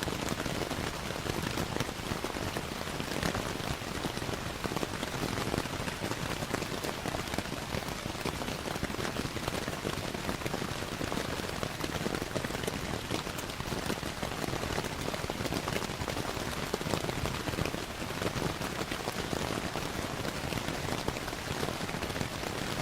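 Steady rainfall mixed with a crackling wood fire: an even hiss of rain with many small, sharp crackles scattered through it.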